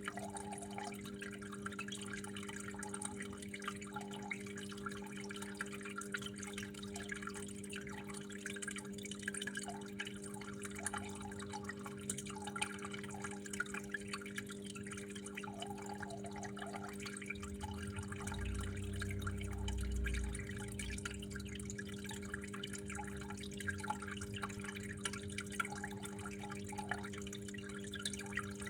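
Water dripping and trickling in many small irregular drops, over a steady low hum, with a brief low rumble about two-thirds of the way through.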